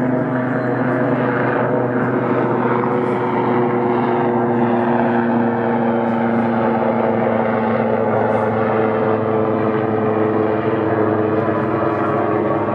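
AgustaWestland AW159 Wildcat twin-turboshaft helicopter flying past, its engines and rotor making a steady, loud sound whose pitch falls slowly.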